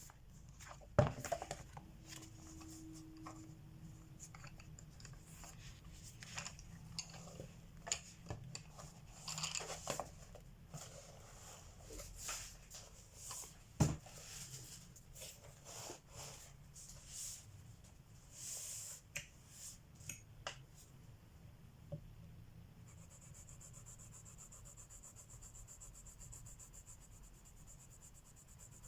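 Coloured pencils and paper being handled: scattered clicks, taps and rustles, the loudest two sharp knocks about a second in and near the middle. From about two-thirds of the way through, a steady soft scratching of coloured pencil shading on paper.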